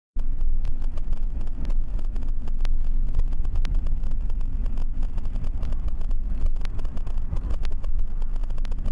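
Car driving, as heard by a dash-cam microphone: a steady heavy low rumble of engine and road noise, with a sharp click about once a second.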